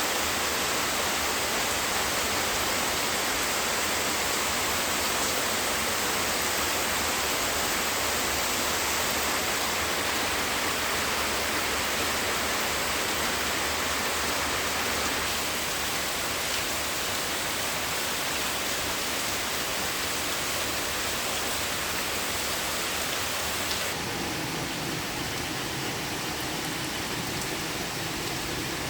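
Heavy rain falling in a steady hiss. About 24 seconds in the sound shifts, with less high hiss and a duller, lower-pitched rush.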